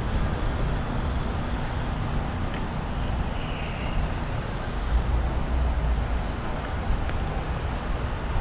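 City street noise: a steady low rumble of passing traffic, with a brief high squeal about three seconds in.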